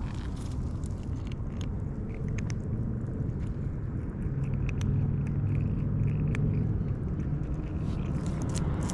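A steady low rumble that grows louder midway and eases near the end, with scattered small clicks over it.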